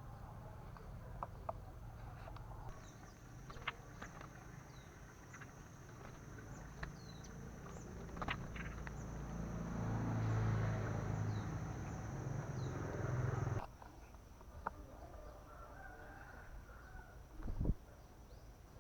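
Outdoor ambience of small birds giving short, high, falling chirps, scattered throughout, over a steady high whine. A low rumble swells from about ten seconds in and cuts off suddenly about three seconds later.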